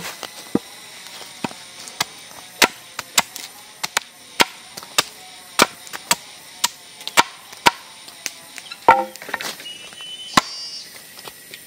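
Wood being chopped: a run of sharp single strikes at an uneven pace, roughly one to two a second.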